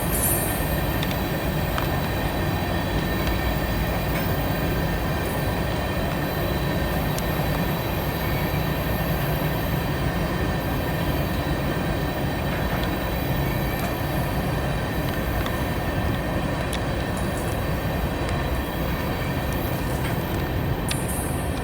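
Norfolk Southern train cars rolling by on the rails in a steady, unbroken rumble, with faint, steady high-pitched wheel squeal tones over it.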